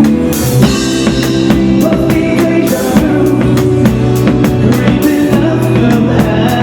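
A live band playing a song, a drum kit keeping a steady beat under sustained instrument notes.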